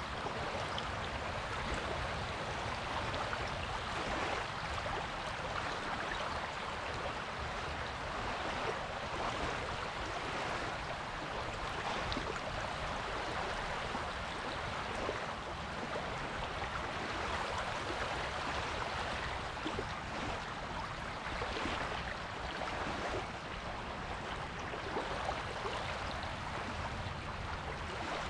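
Surf washing onto a beach: a steady hiss of breaking and receding water that swells louder every few seconds, irregularly.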